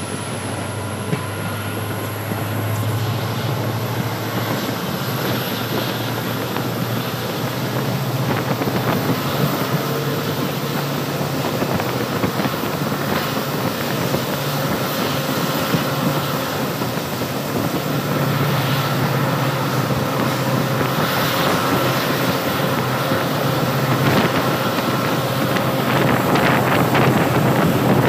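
Passenger train running along the track, heard from an open coach doorway: a steady rumble of wheels on rails with wind on the microphone, growing a little louder toward the end.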